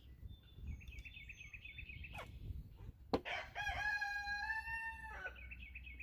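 A rooster crows once, about three seconds in: one long held call that drops at the end. Small birds chirp in quick trills before and after it, and a sharp click comes just before the crow.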